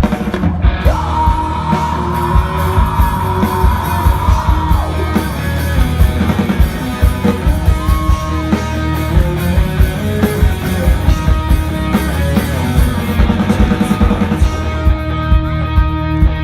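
Live rock band playing a song's instrumental intro: electric guitar lines over a steady drum-kit beat, amplified through a PA.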